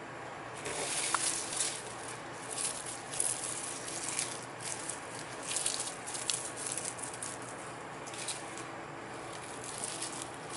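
Crisp rustling and crackling of dried cabbage pieces being handled, in irregular bursts. Under it runs a steady low hum from the food dryer's fan.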